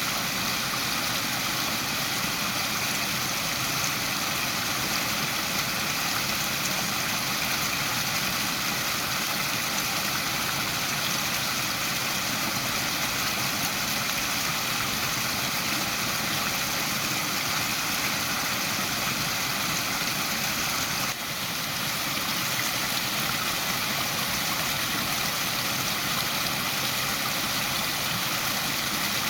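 Waterfall: falling water rushing steadily, with a brief dip in level about two-thirds of the way through.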